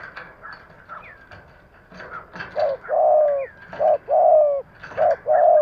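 Spotted dove cooing: from about halfway in, a repeated phrase of a short coo followed by a longer drawn-out coo, three times over. Before it, only faint chirps and clicks.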